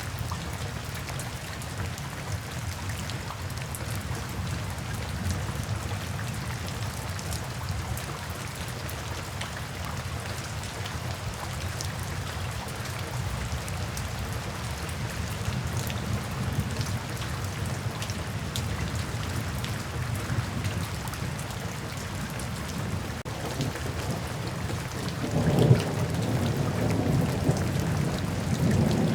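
Steady rain falling, with low thunder rumbling underneath. A louder rumble of thunder breaks in near the end.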